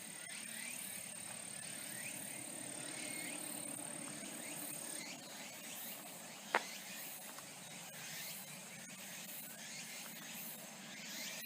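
Outdoor forest ambience: a steady low rumble of distant road traffic, with a high insect trill that stops about halfway and faint chirps. One sharp click comes a little past the middle.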